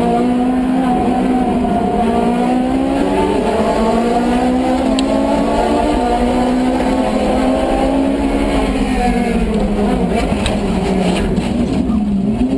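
Car engine running hard at high revs, its pitch drifting gently up and down and dipping twice near the end as the revs drop.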